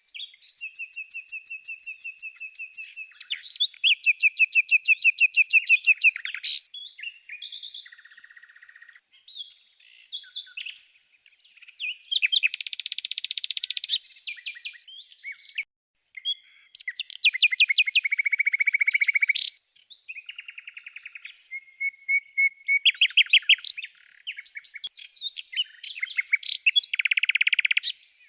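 Small birds singing: rapid runs of repeated high chirps and trills in varied phrases, separated by brief pauses.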